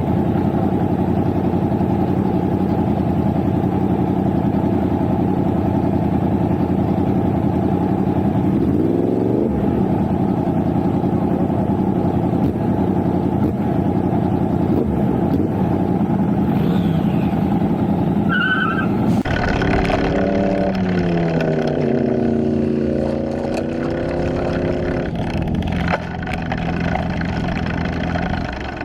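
Motorcycle engine running steadily at speed under wind rush, its pitch dropping and climbing again about nine seconds in as it changes gear. After a cut about two-thirds of the way through, an engine revs up and its pitch falls and rises over a few seconds.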